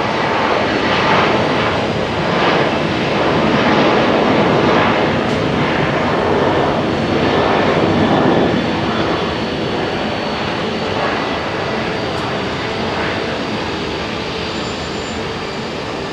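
Boeing 737's twin jet engines at takeoff power as the airliner rolls down the runway, a loud roar that swells to its peak about eight seconds in and then slowly fades as it moves away.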